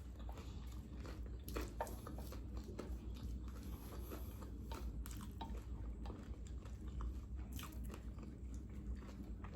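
A person chewing food close to the microphone: a soft, irregular run of small crunches and wet mouth clicks.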